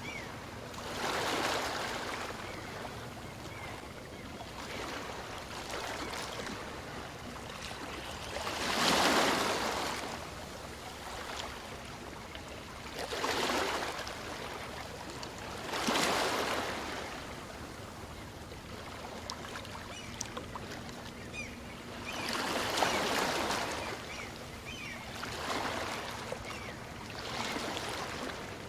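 Small waves of a calm sea washing onto a beach, each wash of surf swelling and fading every few seconds, the loudest about nine and sixteen seconds in.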